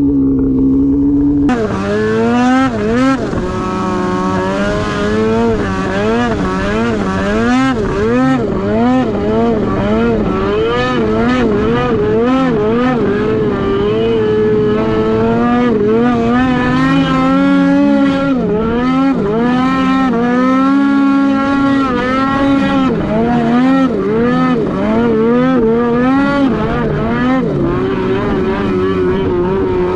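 Snowmobile engine running hard, its pitch rising and falling about once or twice a second as the throttle works over rough snow.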